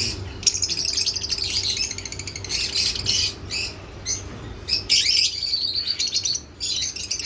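Many small birds chirping and twittering together in a continuous overlapping chorus, with a faint steady hum underneath.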